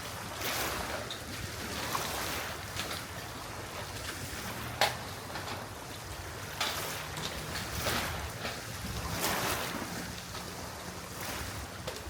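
Sea water washing at a rocky shore in repeated surges over a steady low rumble, with one sharp knock about five seconds in.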